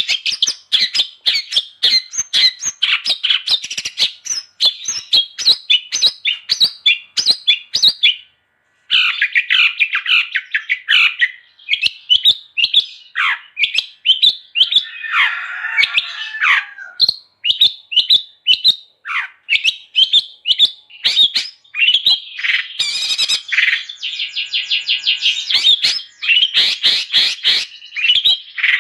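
Long-tailed shrike (cendet) singing non-stop: a rapid, chattering stream of short sharp notes. There is a brief break a little after eight seconds, and a harsher, lower rasping phrase around the middle.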